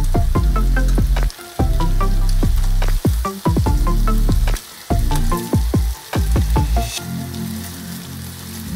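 Marinated pork belly slices sizzling as they fry in a nonstick pan, being turned over with tongs. Background music with a bass line plays over the frying.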